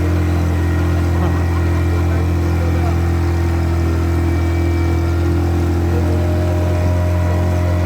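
Speedboat engine running at a steady speed, a constant low drone with no change in pitch.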